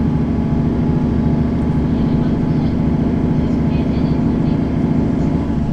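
Mercedes-Benz Citaro city bus driving, heard from inside the cabin: a steady diesel engine and drivetrain hum, easing slightly near the end.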